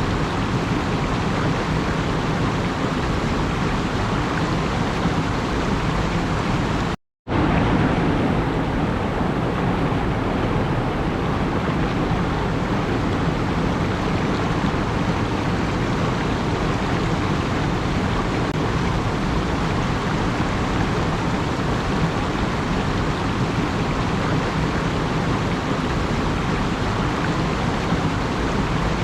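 Steady rushing noise with no tone or rhythm in it, cut off to silence for about half a second some seven seconds in, then resuming unchanged.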